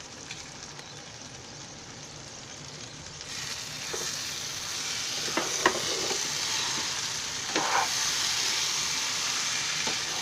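Spiced ivy gourd sizzling in a pan while being stirred with a spatula, with a few scrapes and taps of the spatula against the pan. The sizzle grows louder about three seconds in as the stirring starts. It is the leftover cooking water boiling off the vegetables.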